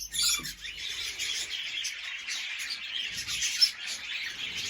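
Many small aviary birds chirping and twittering at once, a steady dense chatter of short overlapping calls with a louder burst just after the start.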